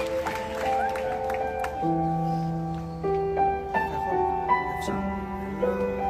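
Slow piano introduction to a live pop ballad: single notes struck one after another and left to ring over each other. Faint crowd noise dies away at the start.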